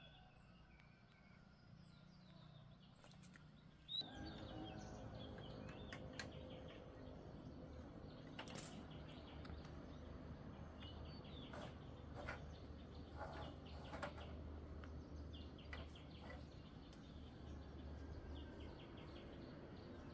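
Faint outdoor ambience: scattered bird chirps over a low steady hum that comes up about four seconds in, with a few soft clicks.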